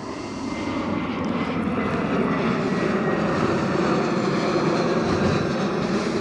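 Jet airliner on landing approach passing close by, its engine noise swelling over the first few seconds, then holding and easing slightly, with a faint whine in the mix.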